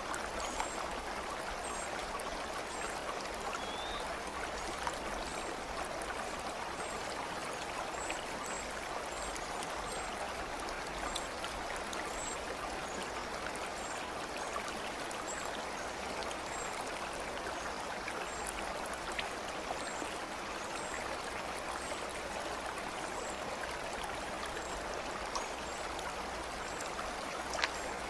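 Steady running water of a stream, an even rushing flow, with faint high chirps scattered above it.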